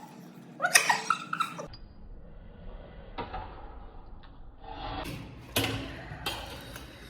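Close-up eating sounds of pani puri: crisp shells crunching and chewing, with a few sharp clicks and crunches in the second half. A short voice-like sound comes about a second in.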